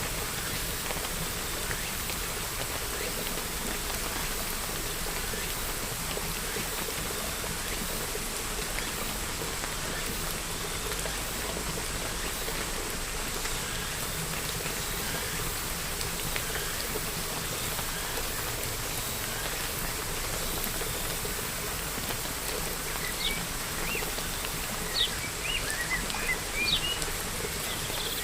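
Steady rain falling in an even, unbroken hiss. A few short, high bird chirps come in near the end.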